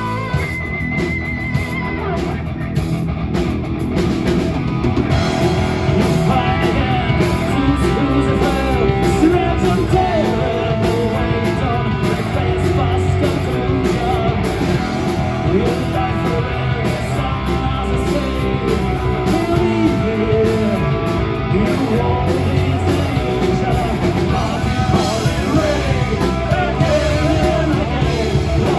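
Live rock band playing: electric guitar and drums, with a singer's voice coming in a few seconds in.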